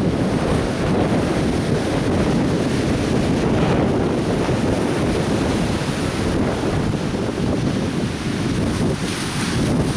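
Atlantic Ocean surf breaking and washing on a beach, a continuous rush of waves with a brighter hiss near the end. Wind buffets the microphone, adding a low rumble.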